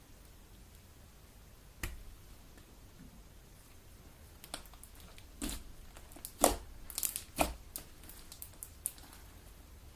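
Homemade Elmer's glue slime being kneaded and squeezed by hand, giving one sharp pop about two seconds in and then a run of irregular clicky pops and squelches through the second half.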